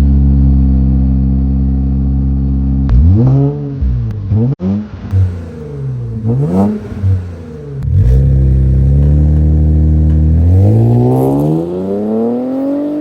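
Infiniti Q50's VR30 twin-turbo V6 running through a custom 2.5-inch exhaust with an X-pipe and SLP mufflers. It idles steadily, gets several quick rev blips a few seconds in, settles, then is held in a slow rising rev that drops back right at the end.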